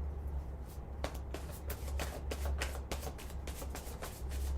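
Tarot cards being shuffled by hand: a quick run of short papery card clicks and flicks starting about a second in, over a steady low hum.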